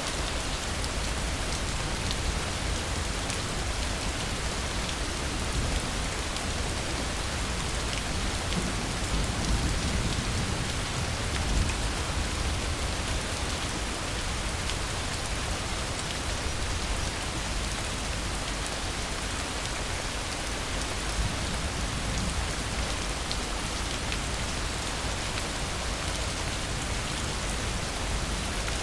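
Steady rain falling: a dense, even hiss with single drops ticking here and there.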